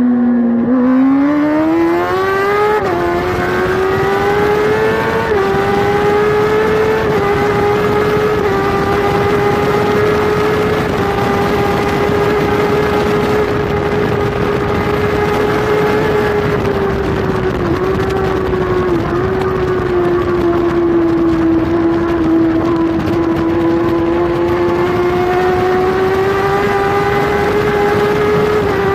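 Kawasaki superbike's inline-four engine heard from on board at racing speed: it accelerates hard with quick upshifts about three and five seconds in, then is held near full revs for a long stretch, dipping briefly twice and easing a little past the middle before climbing again. Rushing wind runs under the engine throughout.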